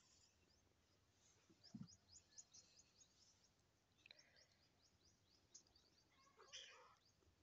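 Near silence with faint, rapid bird chirps in the background. A soft low thump comes about two seconds in, and a brief, slightly louder sound near the end.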